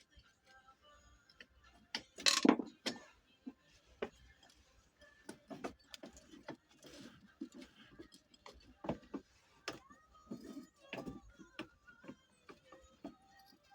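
Scattered clicks and knocks of hand tools and engine parts being handled during assembly, with one louder clatter about two seconds in.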